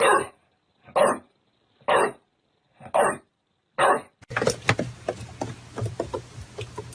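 A dog barking five times, about once a second. Then the sound changes to scattered clicks over a low steady hum.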